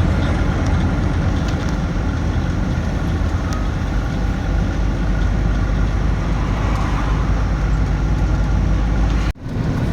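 Truck on the move: a steady low engine rumble with road noise, no change in pace, cut off abruptly near the end.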